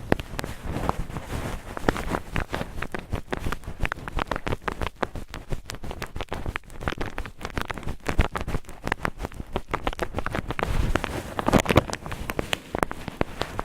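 Cotton ball rubbed and squeezed close to a microphone: a dense, uneven run of crackly scratching, with louder bursts near the middle and toward the end.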